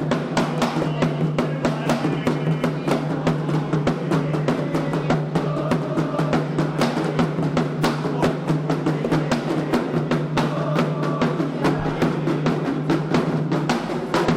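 Candomblé atabaque drums playing a fast, dense rhythm of about five strikes a second for the xirê, with voices singing at times over the drumming.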